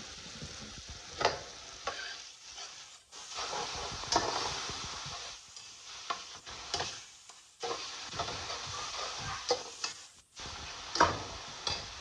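Chicken, tomato and ketchup sizzling in an aluminium pot while a slotted metal spatula stirs and scrapes through them. Several sharp clinks of the spatula against the pot stand out, and the sizzle drops away briefly a few times.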